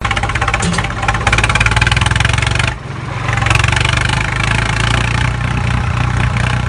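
Engine sound running steadily with a rapid pulsing beat. It dips briefly nearly three seconds in, then picks back up.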